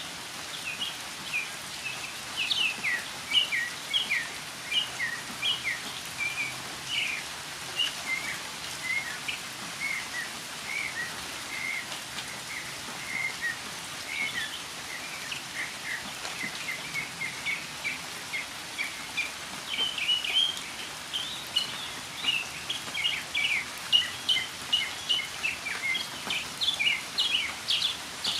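Northern mockingbird singing a continuous string of short, varied notes, with steady rain falling.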